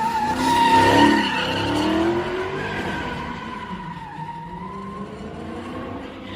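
Car tyres squealing in a long skid while an engine revs, loudest about a second in and then easing off.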